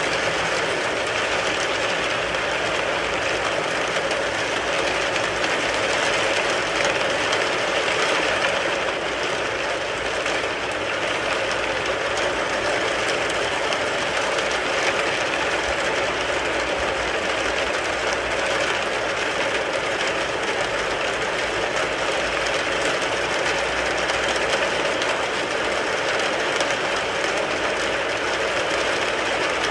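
Steady rain falling on a car, an even, unbroken hiss of countless drops.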